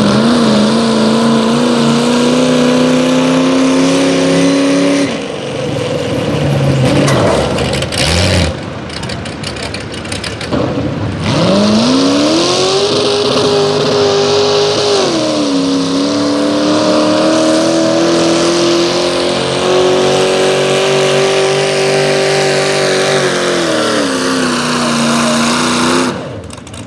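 Competition pulling vehicle's engine running hard at high revs during a sled pull. The revs sag about five seconds in, climb back up, dip again, hold steady for several seconds and fall away near the end as the throttle is let off.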